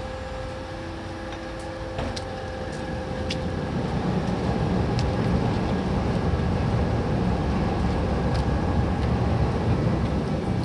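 Ferry's engines running with a steady low rumble and a faint hum, swelling about three to four seconds in and then holding, with a few light clicks.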